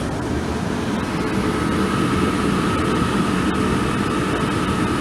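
Steady hum and rumble inside a carriage of a Class 450 electric multiple unit, with a thin steady whine joining about a second and a half in.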